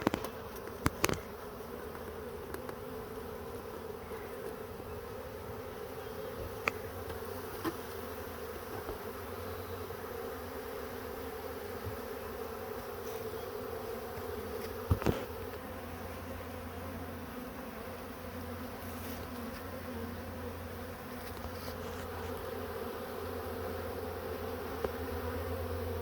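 A wild honeybee swarm buzzing steadily as the bees cluster and move inside. A few brief sharp clicks come about a second in and again about halfway through.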